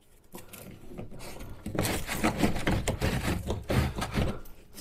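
Crackling, clattering handling noise as the folding kayak's plastic sheet and parts are worked together during assembly. It is loudest for about two and a half seconds starting near two seconds in.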